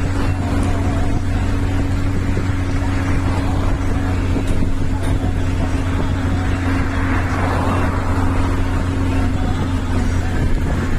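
An engine running steadily, a constant low drone with an even hum above it.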